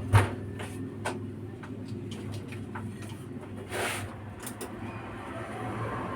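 Steady low hum from the Konzert 502B amplifier and speaker on test, with scattered clicks and knocks. There is a sharp click near the start and a short rushing noise about four seconds in.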